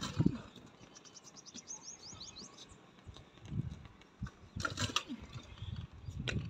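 A bird gives a rapid series of high chirps, about ten a second, about a second in. There are sharp knocks at the start, around the middle to late part, and near the end.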